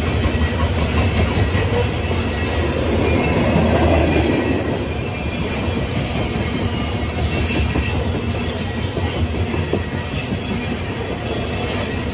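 Freight train's open-top coal hopper cars rolling past: a steady rumble and rapid clatter of steel wheels on the rails, with a faint high squeal from the wheels.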